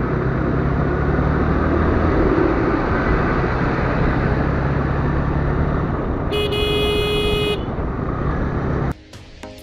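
Steady road traffic and engine noise, with a vehicle horn sounding for about a second past the middle. Near the end the noise cuts off and percussive background music starts.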